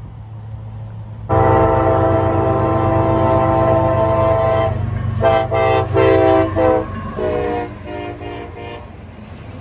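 Diesel locomotive horn sounding for a road crossing: a long multi-note blast begins about a second in, followed by a string of short blasts that drop in pitch and fade near the end as the locomotive passes. A low engine rumble runs underneath.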